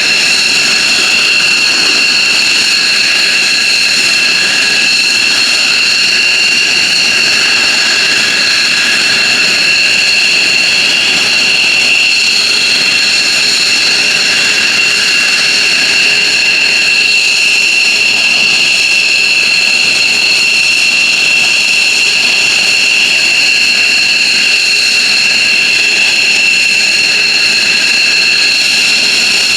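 F-15J Eagle fighter's jet engines running steadily on the ground, a loud, unchanging high-pitched whine over a roar.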